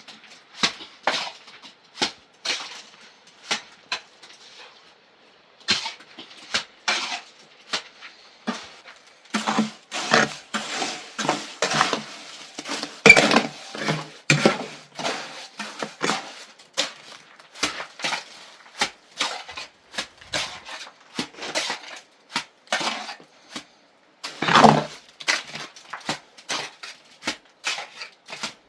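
Irregular clinks and knocks of hard objects being handled, several a second, with a short pause about four seconds in and the busiest stretch in the middle.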